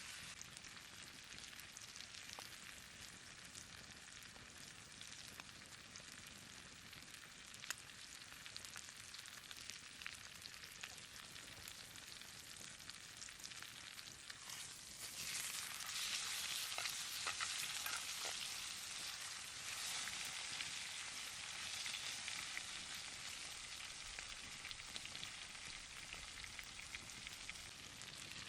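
Tomahawk steak sizzling as it sears, a steady hiss with fine crackles that grows louder about halfway through.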